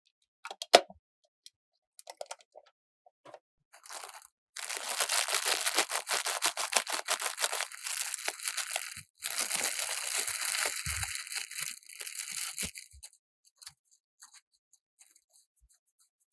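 A few light clicks and taps, then two long stretches of dense crackling and tearing, typical of crinkly plastic toy packaging being handled and torn open.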